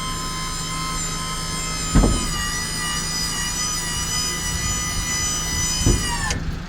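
Hydraulic dump-bed pump of a 1999 Mitsubishi Minicab dump truck whining steadily as the bed is raised, over the engine's low hum. There is a thump about two seconds in, where the whine drops slightly in pitch, and another thump near the end. Then the whine slides down in pitch and cuts off.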